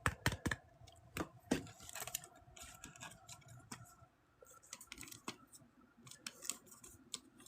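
Trading cards being handled: a scattered series of light clicks, taps and small scrapes of card stock.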